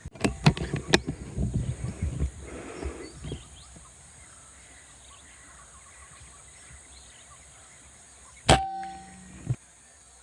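A single sharp hunting shot about eight and a half seconds in, with a short ringing tone after it and a click about a second later. Before it come a few sharp clicks and rustling from handling the gun.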